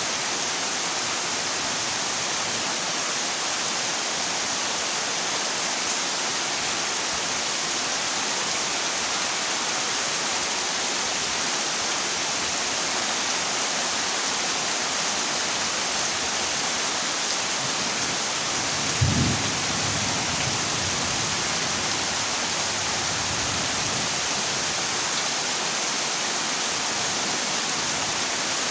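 Heavy rain falling steadily on a corrugated zinc roof, with one short low rumble of thunder about two-thirds of the way through.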